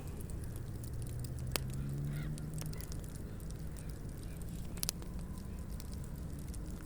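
Wood fire crackling, with sharp scattered pops over a steady low hiss. About a second in comes a low, drawn-out call or tone that rises slightly in pitch.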